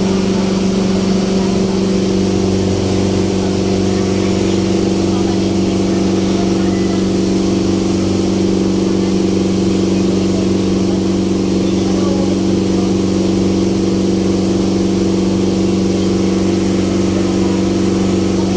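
Passenger ferry boat's engine running steadily at a constant pitch, a loud, even drone heard from on board.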